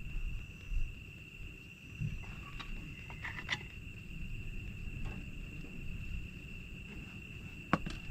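Crickets trilling on one steady high pitch over a low outdoor rumble, with a few sharp pops and crackles from a wood campfire, a cluster about halfway in and a louder single pop near the end.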